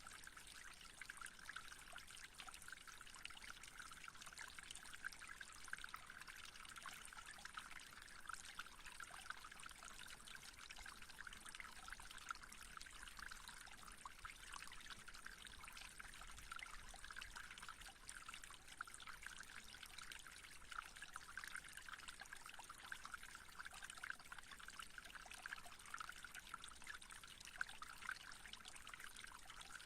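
Faint, steady trickling water, like a small stream, with fine continuous splashing.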